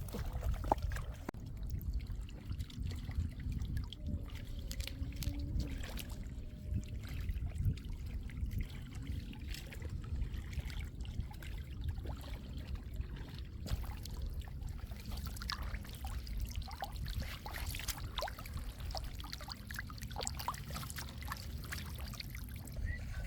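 Shallow floodwater trickling and splashing, with scattered small splashes over a steady low rumble.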